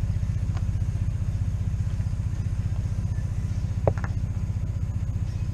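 Tow vehicle's engine idling with a steady low throb, with one short click about four seconds in.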